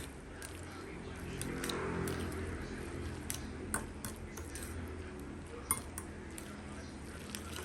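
Metal utensils clinking and knocking against kitchenware in scattered light strikes, over a steady low hum, with a soft rush that swells and fades about two seconds in.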